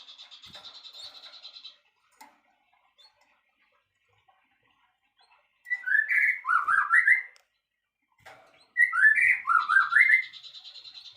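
Songbird song: a fast buzzy trill that stops, then two loud whistled phrases of quick rising and falling notes about three seconds apart, then the buzzy trill again near the end.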